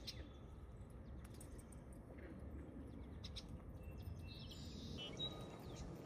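Faint outdoor ambience: a few scattered, short bird chirps over a low, steady rumble, with a brief high whistled note about five seconds in.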